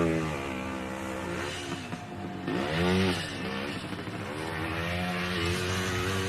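Yamaha DT1's single-cylinder two-stroke engine running under a rider off road, its revs dropping and rising again about halfway through, then holding fairly steady.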